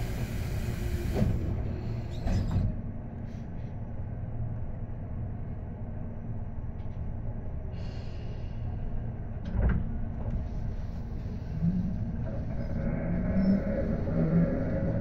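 Tobu 10030 series electric train running, heard from inside the car: a steady low rumble with a few sharp knocks from the wheels and track. A short hiss cuts off in the first second.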